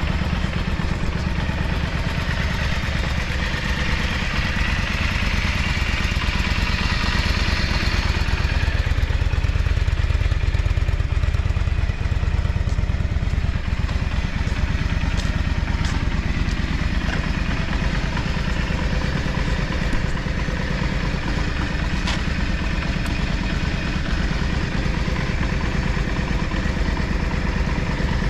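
Yamaha Drag Star 400 Classic's air-cooled V-twin engine running steadily, slightly louder for a few seconds before the middle. The seller calls it smooth-running with no abnormal noise.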